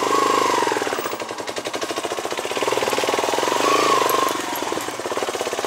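Motorcycle engine running while riding slowly over a rough dirt track: a fast, even pulsing beat whose pitch rises and falls a little with the throttle.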